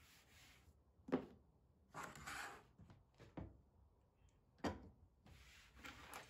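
Quiet household handling sounds: three short knocks of objects being set down or bumped, about a second in, just past three seconds and near five seconds, with a brief rubbing sound around two seconds.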